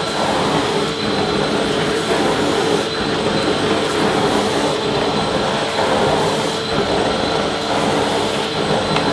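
Vacuum cleaner running steadily: a constant rushing noise of air with a steady motor hum and a faint high whine above it.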